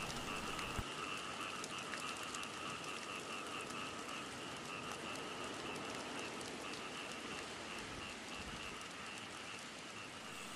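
Rain falling steadily on wet ground at night, with a steady high chorus of calling animals in two pitches behind it.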